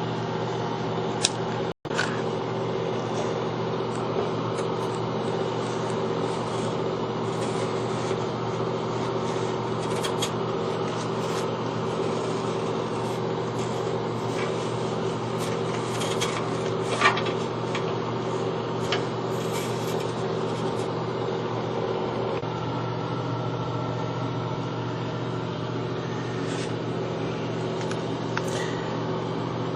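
A steady motor hum with scattered light scrapes and clicks over it. It cuts out for an instant about two seconds in.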